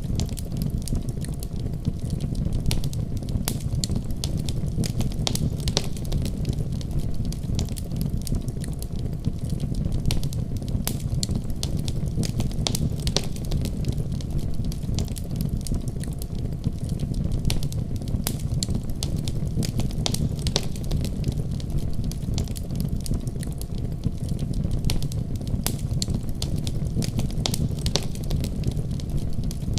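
Wood fire crackling in a fireplace: many sharp, scattered pops and snaps over a steady low rumble.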